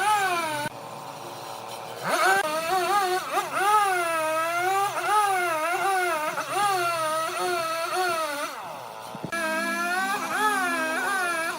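A large wood lathe's cut: the tool squeals against the spinning blank in a whine whose pitch rises and falls about once a second, with two short breaks.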